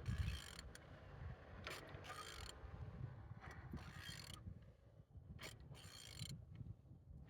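Used F16D3 1.6-litre four-cylinder engine turning over, giving a low rumble with irregular mechanical clicks and ratcheting.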